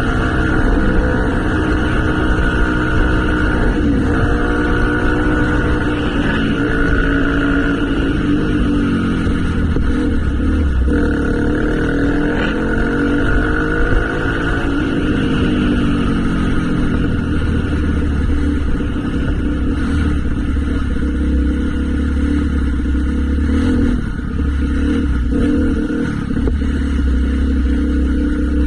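Motorcycle engine running while riding, its pitch rising and falling with the throttle around the middle.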